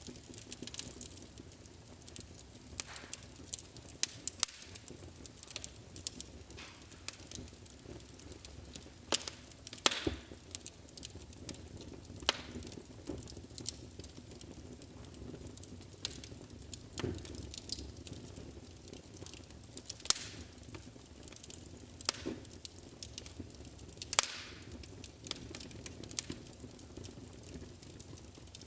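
Wood fire burning in a fireplace: irregular sharp crackles and pops over a low, steady hiss of the flames.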